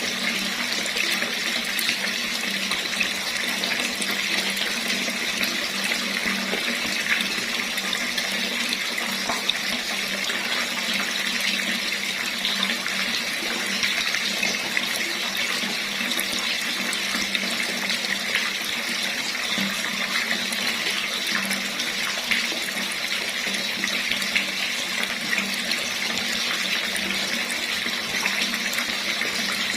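Water running steadily from a tap, a continuous hiss and splash with no change.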